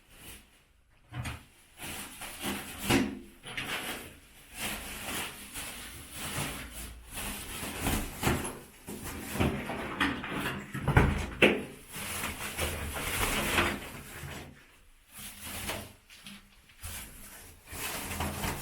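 Loose bricks and rubble from a demolished partition wall being handled: irregular knocks, clatters and scraping, loudest a little past the middle.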